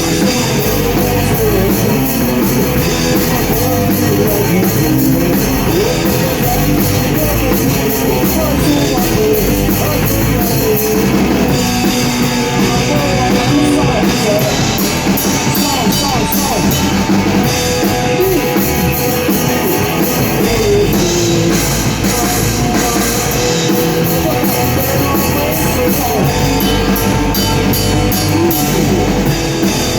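Rock band playing a song: guitar and drum kit, loud and continuous.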